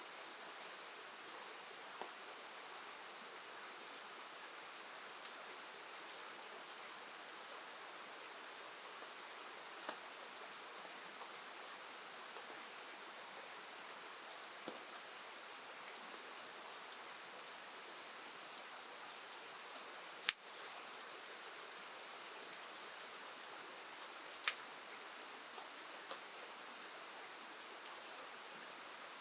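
Steady rain falling, with scattered sharp ticks of drops. A single louder tick comes about twenty seconds in.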